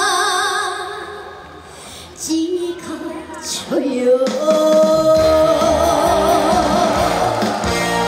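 A female singer singing a song over backing music. A long held note with vibrato fades out in the first couple of seconds; after a short lull she starts a new phrase with another held note, and the accompaniment's bass and beat come back in about halfway through.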